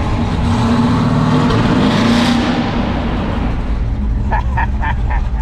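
A car engine running loudly as it passes, the sound swelling to a peak about two seconds in and then fading.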